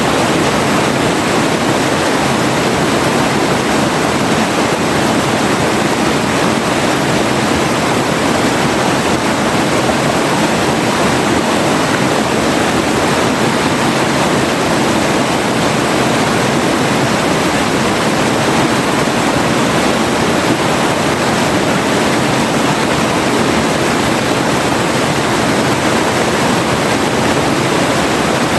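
River water rushing steadily over rocks, a continuous even roar of flowing water.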